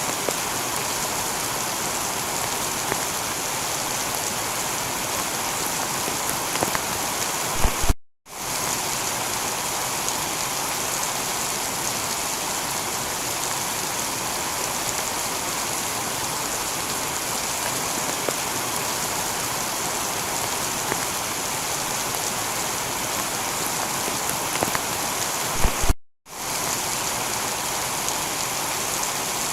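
Heavy rain falling steadily on a tiled roof, with now and then a sharp drop striking close by. Twice, about eight seconds in and again near the end, the sound cuts out to silence for a moment just after a couple of louder hits.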